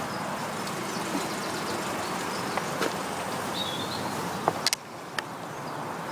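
Steady outdoor background noise of distant road traffic, with a few sharp clicks about four and a half to five seconds in.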